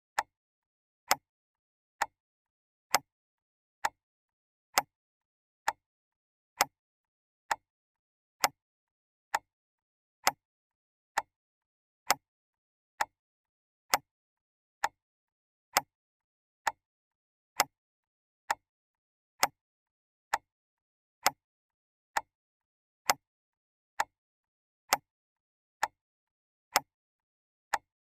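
A clock ticking steadily, sharp clicks a little faster than one a second, evenly spaced with silence between them.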